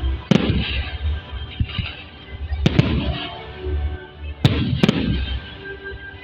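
Fireworks salute going off: five sharp bangs of bursting shells, some close together in pairs, each followed by crackling.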